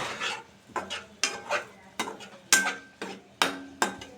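A cooking utensil stirring chicken in a pan, knocking and scraping against the pan in irregular strokes. Some knocks ring briefly. The chicken is being cooked until its water dries off.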